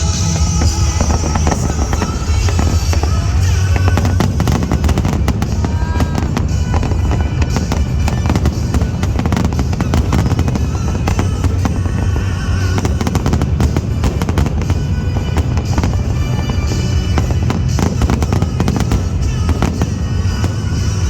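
Aerial fireworks bursting in a dense run of cracks and bangs, with loud music playing along throughout.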